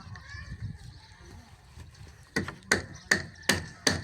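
Repeated sharp blows of a hand tool striking at a steady pace, about two and a half a second. The blows pause, then start again about two and a half seconds in.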